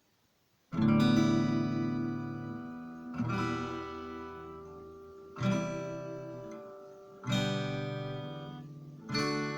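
Acoustic guitar: five strummed chords about two seconds apart, each left to ring and fade out. It is the opening of a song played on solo guitar.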